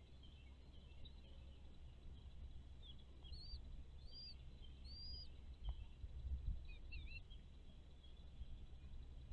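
Bird chirping faintly: three short, high, matching chirps about three seconds in, then a couple more around seven seconds, over a faint low rumble.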